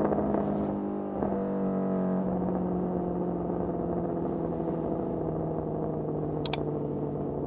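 Honda CBR650R's inline-four engine running through a Mivv MK3 carbon exhaust while riding, with a brief break in the note about a second in, then a steady note that slowly sinks in pitch. Two quick high clicks sound near the end.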